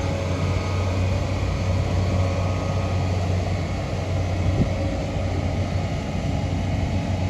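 Steady engine and road noise of a vehicle being driven, heard from inside the cab as a low hum.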